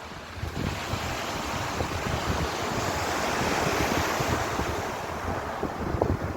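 Ocean waves washing on the shore: one wash of surf swells up over the first few seconds and then recedes.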